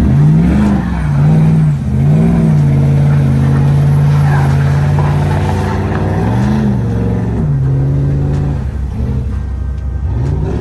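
Loud truck engine revving: quick rises and falls in pitch, then held steady at high revs for a few seconds, with more revs after about six and a half seconds.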